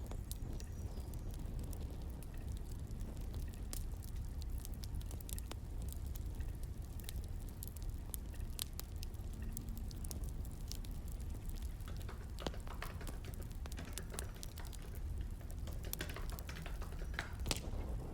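Crackling wood fire: a steady low rumble under scattered, irregular sharp crackles and pops.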